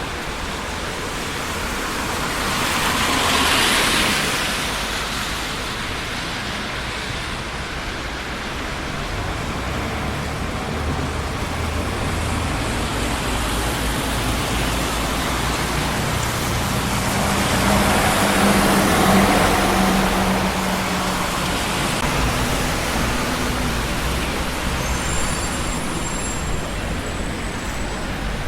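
Busy city street traffic: a steady rush of tyres and engines, with vehicles passing close by, the loudest about three seconds in and again around eighteen to twenty seconds in. The second pass carries a low engine drone. Near the end there is a faint high squeal.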